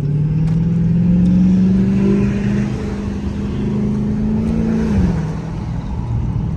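Dodge Charger Hellcat's supercharged 6.2-litre V8, its exhaust opened up by a mid-muffler delete, pulling hard under acceleration. The engine note rises steadily for about five seconds, then drops with a gear change.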